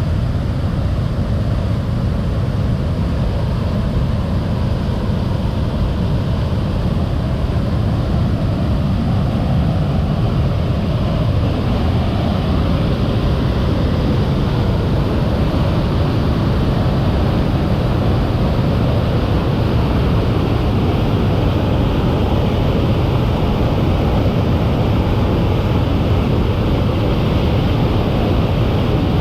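Waterfall running, a loud, steady rush of falling water.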